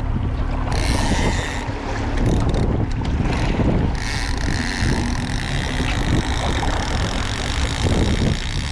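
Boat motor running steadily while the boat trolls, with wind buffeting the microphone.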